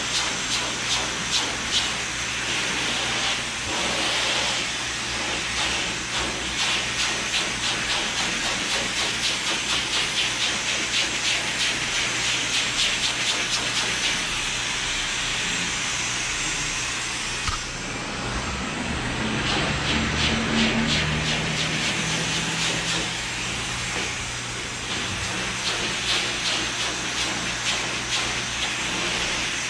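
Hair dryer blowing, a steady rush of air with a quick, even flutter. Just past the middle it falls off briefly, then a lower hum joins it for a few seconds.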